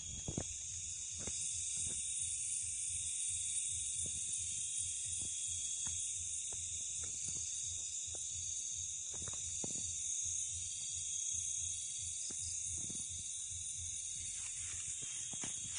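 A steady, high-pitched chorus of night insects such as crickets, with scattered faint clicks and knocks underneath.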